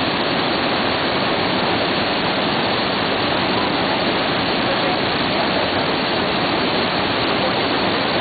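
A waterfall more than 30 m high, its falling water making a steady, unbroken rush.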